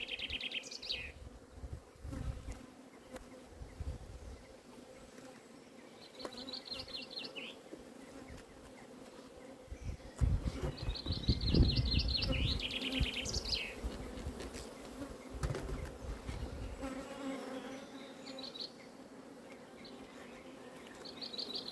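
Honeybees buzzing around an open hive during an inspection, a steady hum. Low rumbling noise comes and goes and is loudest about ten to thirteen seconds in.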